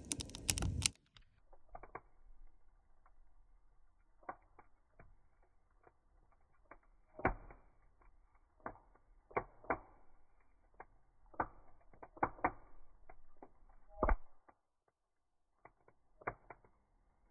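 Wood fire crackling, with sharp pops at irregular intervals over a faint hiss; a brief loud rush of noise opens it.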